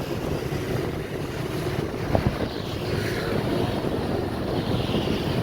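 Motorbike and street traffic running steadily, with wind on the microphone.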